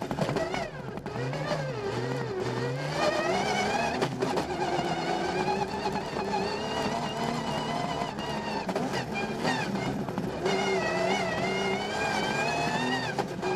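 Rally car engine at full throttle, heard from inside its caged cabin. The pitch climbs and drops sharply again and again as the driver changes gear and lifts through the bends of a gravel stage.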